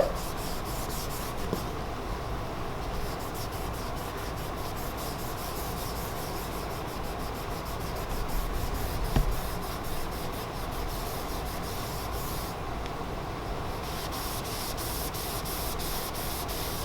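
A cloth rag buffing clear wax in a hardwood floor scratch, a steady rubbing that polishes the wax fill level with the surrounding wood.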